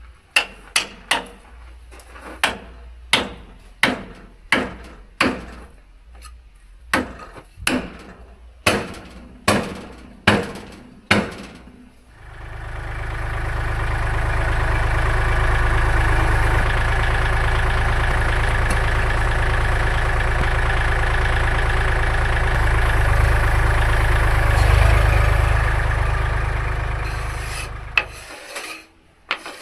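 A run of about twenty hammer blows at uneven spacing. Then a sawmill's engine runs steadily for about sixteen seconds and cuts off near the end.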